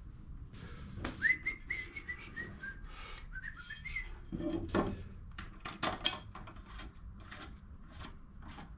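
A person whistling a short tune of stepping notes from about a second in until about four seconds in, with scattered clicks and clanks of tools and parts being handled.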